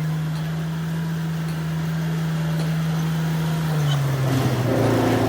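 Diesel engine of a HAMM road roller running steadily with a low hum, its pitch dropping a little about four seconds in as the engine slows.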